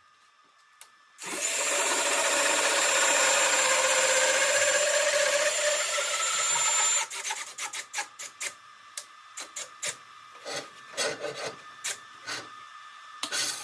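Lathe cutter turning a wooden snare drum shell. A loud, steady cutting hiss starts about a second in and stops abruptly about halfway through. It is followed by a run of short, irregular scraping strokes.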